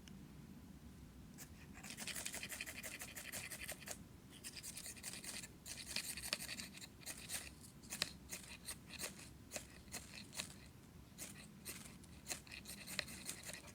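A ferrocerium fire steel being scraped with a striker to throw sparks into tinder: two long rasping strokes, then a run of quick, sharp strikes.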